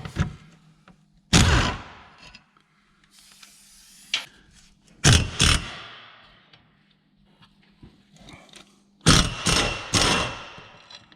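Hand-tool work on a car's driveshaft and support bearing: loud metal clanks and scrapes about a second in, around five seconds in, and again near the end, with a few lighter knocks between and a faint steady hum underneath.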